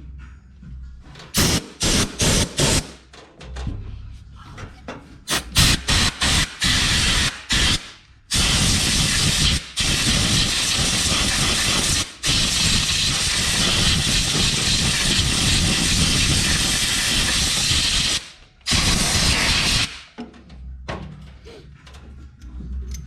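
Pressurised spray hissing onto a dirty tractor fuse block to clean it: several short bursts, then one long continuous spray of about ten seconds and a last short burst.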